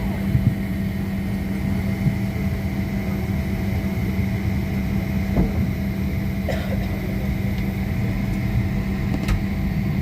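Steady drone of an airliner cabin parked at the gate, with a low hum and a faint high tone, and a few faint clicks and knocks.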